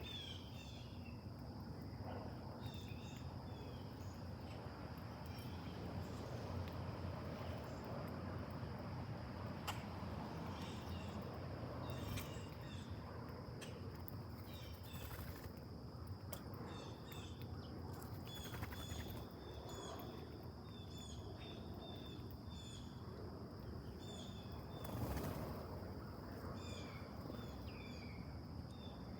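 Small birds chirping in short, frequent calls over a steady high-pitched insect drone and a low outdoor rumble, with a brief louder rustle about 25 seconds in.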